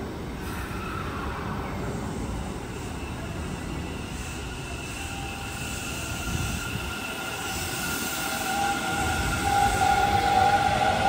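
Electric train drawing near, with a low rumble and several steady high whining tones that grow louder over the last few seconds.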